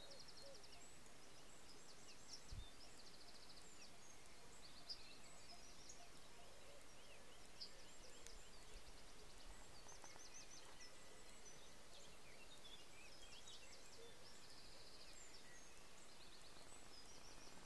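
Small songbirds calling faintly in the hedgerow: scattered high chirps and short rapid trills over a steady quiet hiss, with one soft low thump about two and a half seconds in.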